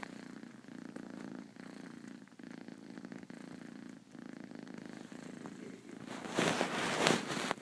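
A drowsy four-month-old kitten purring steadily, with short breaks between breaths about once a second. Near the end a louder, rough noise covers the purr for about a second.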